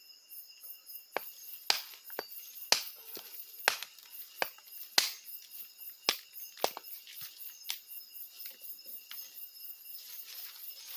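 Night insects, crickets, trilling steadily with a fast pulsing high chirp. From about a second in until past the middle, a string of sharp, irregular clicks and snaps stands out as the loudest sound, then they thin out.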